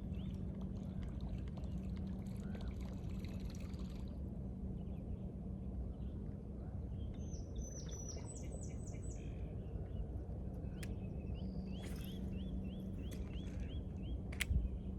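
Outdoor riverbank ambience: a steady low rumble with a constant low hum. Small birds chirp over it, with a few high short notes about halfway through and a quick series of repeated chirps near the end. A couple of sharp clicks are also heard.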